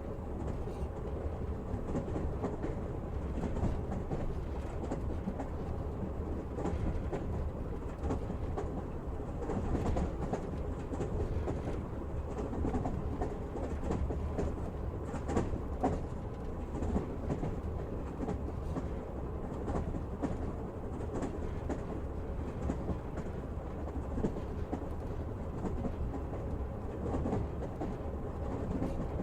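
Passenger train heard from inside a carriage while running: a steady low rumble of the wheels and carriage, with faint irregular clicks over the rails.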